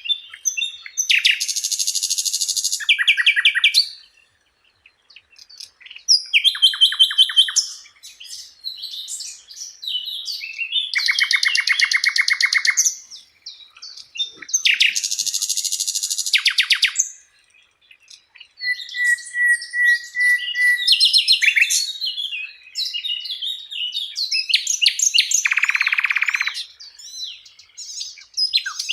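Sikatan londo flycatcher singing: bouts of rapid, high trills and chattering phrases a second or two long, separated by short pauses.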